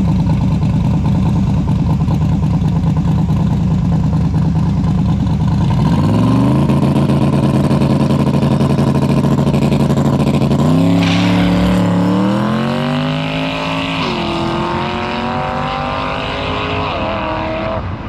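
A high-powered V8 race car launching and accelerating hard. A rough low idle rises to held revs, then the engine winds up through the gears, with the pitch dropping back at each of two shifts.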